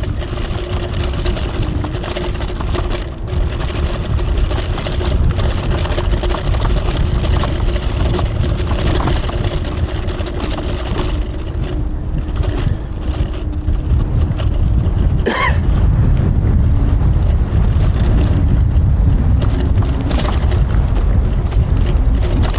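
TRBK-M2 electric hyperscooter riding off-road: a dense rumble of wind on the microphone and tyres over rough ground, with a faint steady motor whine. A brief sharp high sound cuts in about fifteen seconds in.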